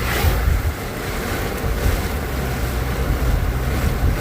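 Heavy downpour and strong wind beating on a moving car, heard from inside the cabin over a steady low rumble of the car driving.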